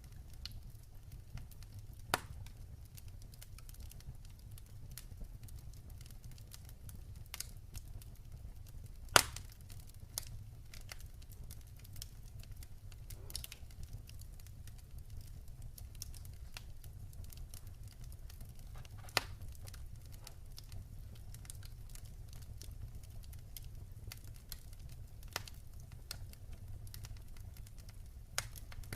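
Wood fire in a fireplace crackling: a steady low rumble of the flames with many small ticks and sharp pops every few seconds, the loudest about nine seconds in.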